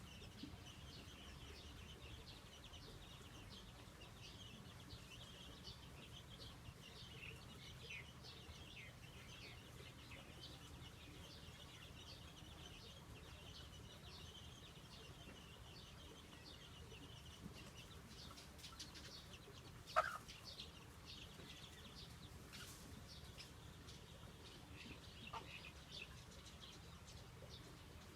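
Faint outdoor birdsong: many short, high chirps from small birds throughout, with one louder, sharper call about twenty seconds in.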